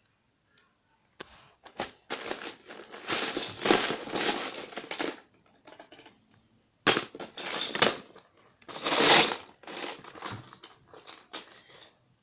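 Loose plastic Lego bricks rattling and clicking as a hand rummages through and handles them, in several bursts.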